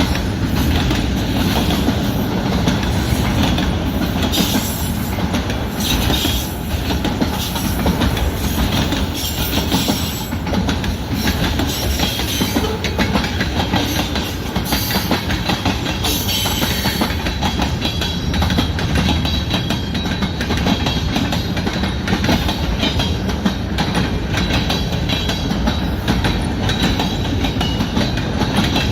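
CN mixed-freight manifest train rolling past, its freight cars' wheels clacking steadily over the rail joints.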